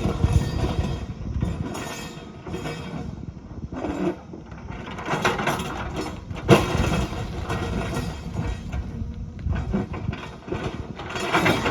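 Heavy earthmoving machine at work: irregular metallic clanks and knocks over a low engine rumble.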